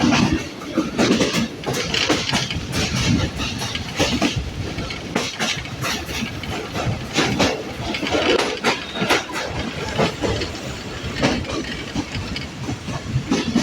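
Train running along the track, its wheels clattering irregularly over the rails amid a steady rumble.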